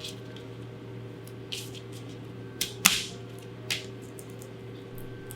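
A few sharp taps and knocks on a cutting board as smashed garlic cloves are handled and peeled, the loudest a knock about three seconds in, over a steady low hum.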